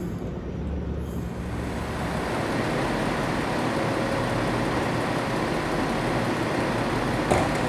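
Train running on the rails, its noise growing over the first couple of seconds and then holding steady, with a single sharp click near the end.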